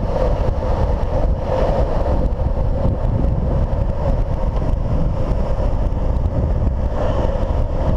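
Wind rushing over the microphone and urethane longboard wheels rolling on asphalt at downhill speed: a loud, steady rush.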